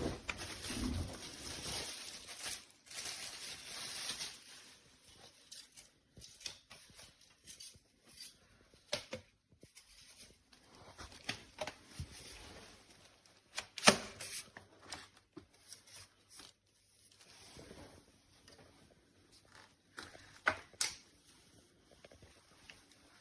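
Handling noises: irregular clicks and knocks, the sharpest about 14 s in and another near 21 s, with faint rustling between them.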